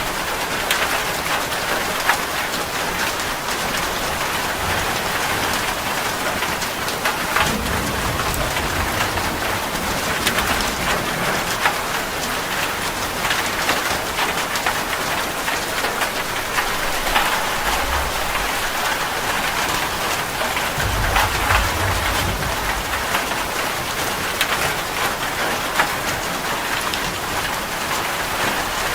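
Heavy rain falling steadily on a metal roof, with many separate drop hits. Low thunder rumbles come in about a quarter of the way in and again about three quarters of the way through.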